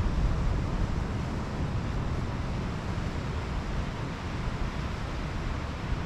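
Ocean surf washing steadily onto the beach, with wind buffeting the microphone as a low, uneven rumble.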